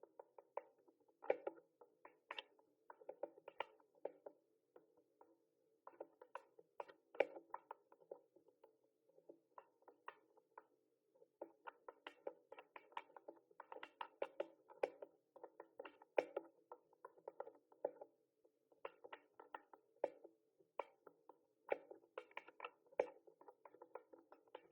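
Mechanical keyboard typing: keys clicking in quick runs of strokes, broken by short pauses every few seconds.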